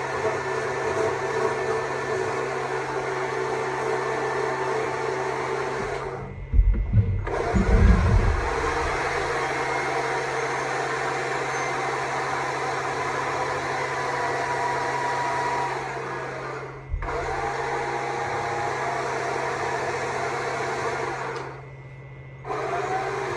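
Stihl MSA 200 C battery chainsaw running and carving wood, its motor cutting out briefly three times as the trigger is let off. Loud low thumps come during the first pause.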